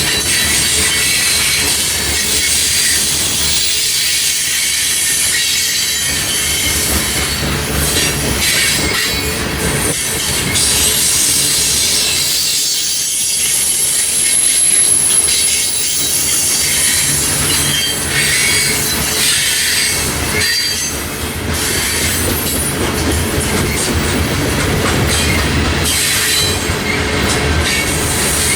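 Freight train rolling past: a steady rumble and clatter of cars, with high squealing tones from the wheels coming and going.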